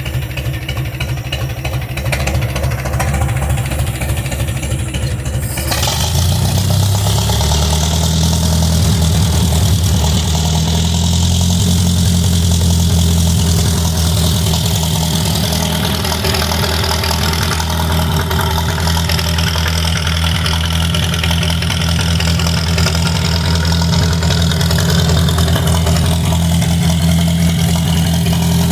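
Farmall M tractor's four-cylinder engine running through a 5-inch straight-pipe stack. It idles, then about six seconds in the engine speed rises and holds steady at the higher speed.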